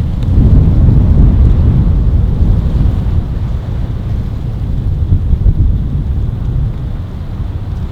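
Strong mountain wind gusting against the microphone, a loud low rumble that swells about half a second in and slowly eases toward the end.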